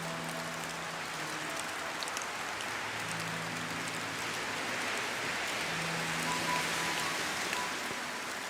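Steady rain falling, an even hiss that swells slightly past the middle. Faint sustained low notes of soft background music sound underneath, changing every second or two.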